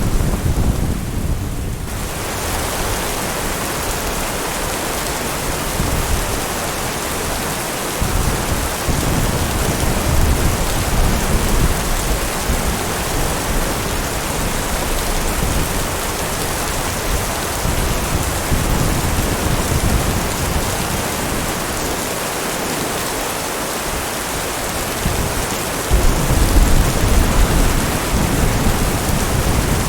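Steady rain with thunder rolling low underneath, swelling about nine seconds in and louder again near the end.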